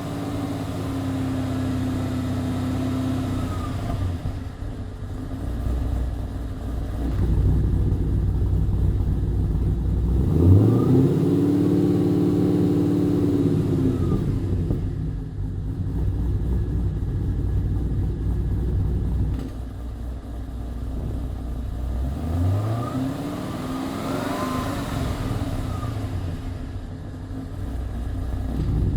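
Cammed and supercharged V8 of a Holden VE Commodore through a 3-inch stainless Xforce Varex valved exhaust, revved and held steady three times for a few seconds each, falling back to idle in between.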